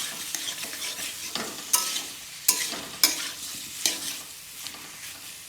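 Smoked pork curry with potato and tomato sizzling in a pan as it is stirred, a utensil clicking against the pan about five times over a steady frying hiss.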